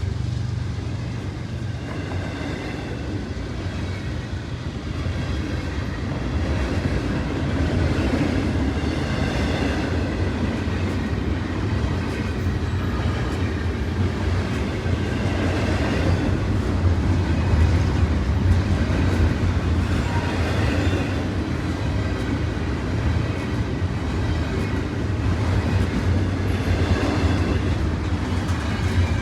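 A train rolling past on the tracks: a continuous low rumble with a run of small rail clicks, and faint high tones above it.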